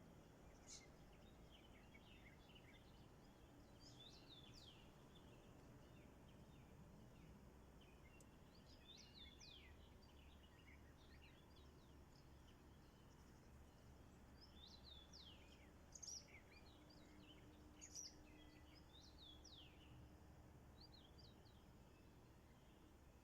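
Small birds chirping faintly over a low steady background hiss: short, quickly falling notes in scattered clusters, with two louder chirps in the second half.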